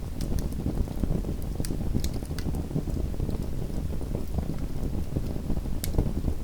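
Small wood fire crackling in an indoor fireplace: scattered sharp pops and snaps over a steady low rumble of the burning, with one louder pop near the end.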